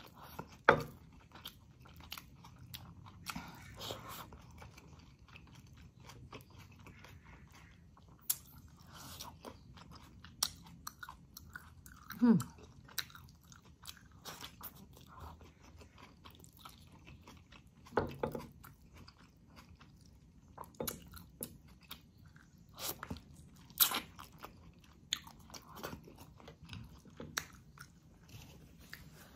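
Close-up eating sounds of a person chewing chicken in coconut milk with mustard greens, eaten by hand: chewing with scattered sharp wet clicks and lip smacks. There is one short falling sound about twelve seconds in.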